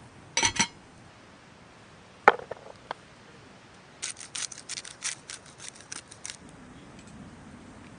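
Camp cooking gear being handled: two sharp clinks, a hard knock, then a run of about a dozen quick, crisp clicks or snips over about two seconds.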